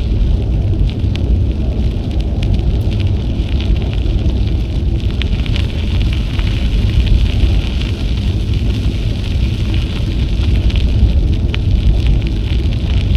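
Wind buffeting an action camera's microphone on a moving bicycle, a steady low rumble with a hiss and light crackle of rolling noise over it.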